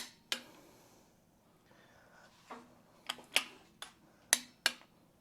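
Click-type torque wrench clicking on the cylinder head bolts of an Allis-Chalmers C engine: about eight short, sharp metallic clicks at irregular intervals, most of them in the second half. Each click means a bolt has reached its set torque as the head bolts are checked.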